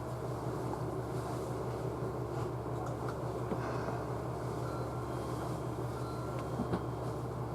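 Steady low hum inside a JR Central 311 series electric multiple unit car, from the train's electrical equipment, with a faint even running noise. Faint short whining tones come in for a moment about five to six seconds in, along with a couple of light clicks.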